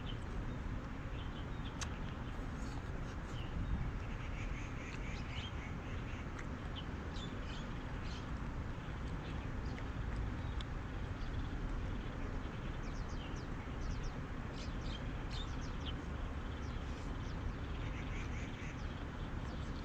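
Birds chirping and calling in short, scattered high notes over a steady low rumble of outdoor background noise.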